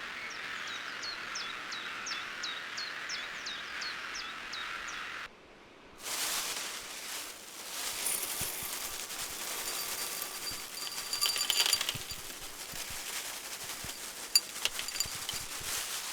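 A bird calling a rapid series of short, high, hooked notes, about three a second, over a steady hiss. After about five seconds the sound cuts out briefly and gives way to noisy rustling with scattered clicks and high squeaks.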